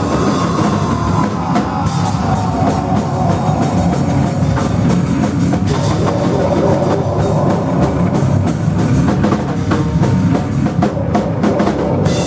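A rock band playing live and loud, with a full drum kit hitting throughout. A high tone slides slowly down in pitch over the first few seconds.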